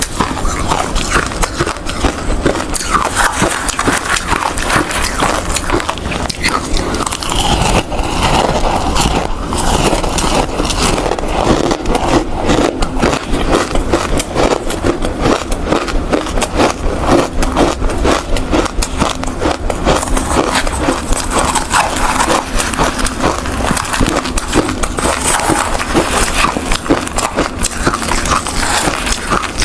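A person biting and chewing hard ice close to the microphone: dense, continuous crunching and crackling without a break.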